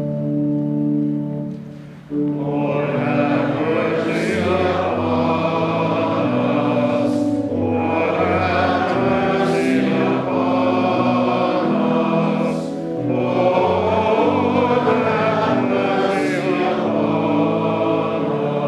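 Organ holding a chord, then a choir singing with the organ from about two seconds in, in phrases separated by short breaths.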